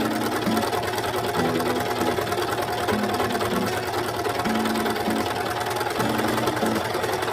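Overlock (serger) sewing machine running steadily at high speed, stitching a fabric edge, with a fast, even chatter of stitches.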